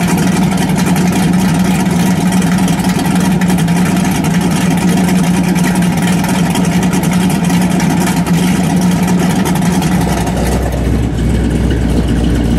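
1964 Chevrolet Biscayne's 409 cubic-inch V8 with a solid-lifter cam, heard at the exhaust, held at a steady raised rev and then dropping back to idle about ten seconds in.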